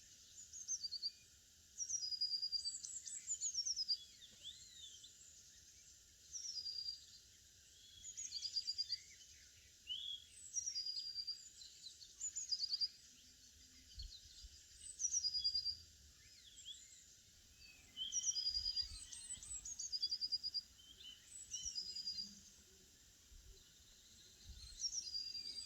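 Songbirds singing: short, high phrases that fall in pitch and end in a quick trill, repeated every two seconds or so, over faint outdoor background hiss.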